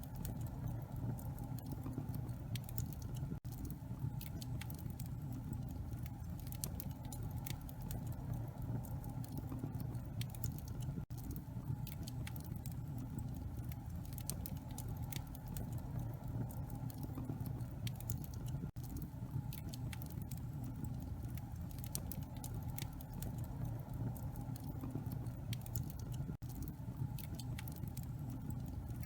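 Wood fire burning in a fireplace: a steady low rumble with frequent small, irregular crackles and pops from the burning logs. The sound drops out for an instant about every seven or eight seconds.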